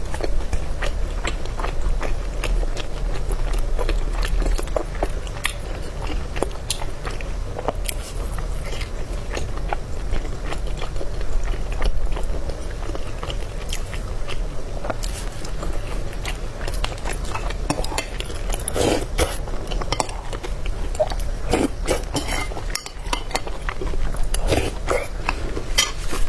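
Close-miked chewing and biting of food, with many short wet clicks and smacks throughout over a steady low hum.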